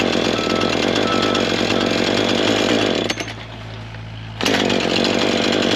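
Husqvarna 440 two-stroke chainsaw running and revved. It holds full throttle for about three seconds, drops back to idle, then revs up again about four and a half seconds in.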